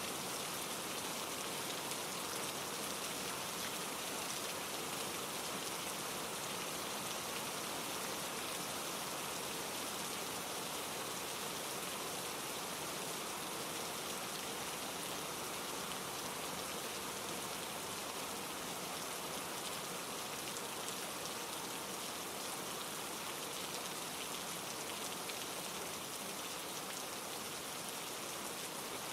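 Steady rain falling through trees, blended with a mountain stream running over granite rocks: an even, unbroken hiss.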